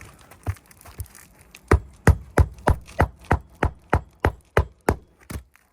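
Hammer driving a nail into a roof shingle: about a dozen sharp strikes, roughly three a second, after a few lighter taps.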